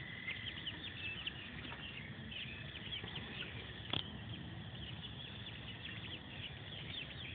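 A small flock of young chickens peeping, many short high chirps overlapping, with a single click about four seconds in.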